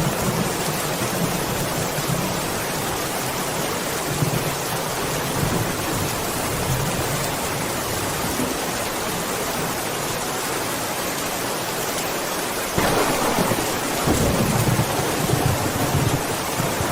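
Steady heavy rain with thunder rumbling low beneath it. About three-quarters of the way through a louder thunderclap breaks in suddenly, and its rumble rolls on to the end.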